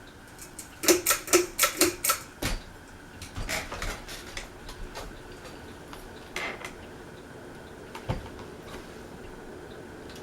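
Ceiling fan pull-chain switch being pulled to change speed: a quick run of sharp metallic clicks and clinks in the first two seconds, then a few lighter rattles of the chain, over the faint steady hum of the running fan.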